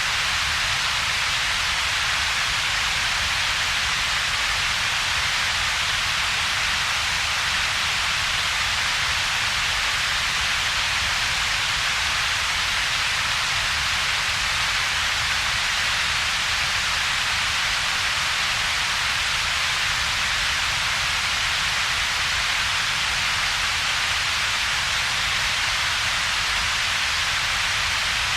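Synthetic double-peaked noise, steady and unchanging. It combines a hiss concentrated in the upper middle range with a weaker low rumble, with a noticeable gap between the two bands.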